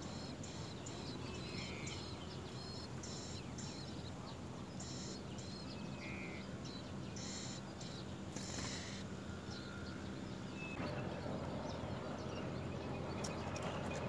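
Small birds at a nest of nestlings chirping in short, high-pitched bursts that come in repeated clusters, over a steady low background noise that grows louder about eleven seconds in.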